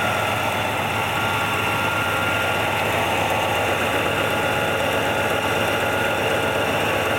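1967 Pontiac ambulance engine idling steadily under the open hood, with a faint high whine over it for the first few seconds. The engine has an exhaust leak, which the owner says is obvious to hear.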